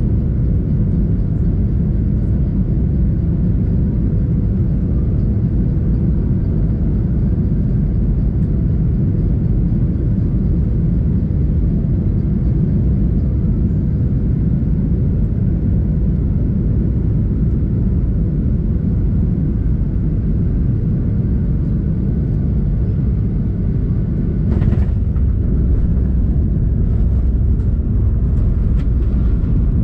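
Passenger airliner in flight, a loud steady low rumble with a faint steady hum over it, and a brief knock near the end.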